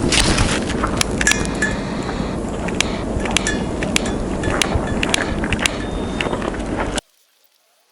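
Light metallic clinks and taps, some with a brief ring, from the stainless steel wood stove and its parts being handled while lighting pellets, over steady wind noise. The sound cuts off abruptly about seven seconds in.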